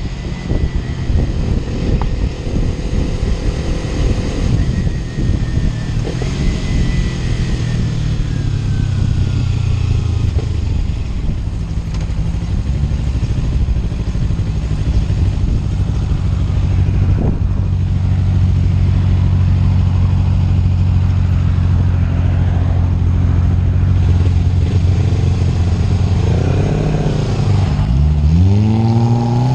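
Kawasaki Ninja 300 parallel-twin engine running on the road. It holds a steady note through the middle, then the revs drop and climb sharply near the end as the bike accelerates.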